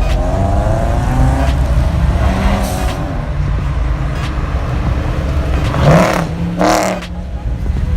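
Car engines running with a heavy low rumble, with a louder burst about six seconds in.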